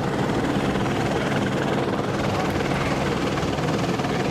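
Police helicopter running steadily, a constant rotor and engine drone with a steady low hum.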